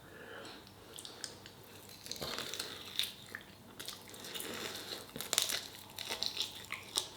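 A person eating at close range: biting and chewing food, with scattered small clicks and wet smacks.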